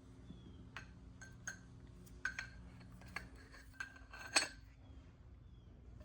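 Small metal engine parts and tools clinking against each other: a string of light metallic clinks, each with a short ring, the loudest about four seconds in.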